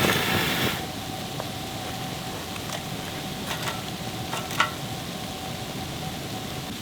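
Food sizzling on a hot camping grill: a loud burst of sizzle in the first second that settles into a steady hiss, with a few light clicks.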